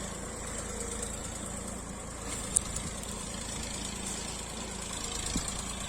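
Massey Ferguson tractor's diesel engine running steadily at low revs, with one sharp tick about halfway through.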